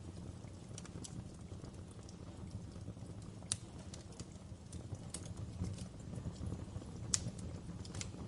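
Wood fire crackling in a fireplace: irregular sharp pops and snaps over a low, steady rumble of the flames, with two louder pops, one about three and a half seconds in and one near the end.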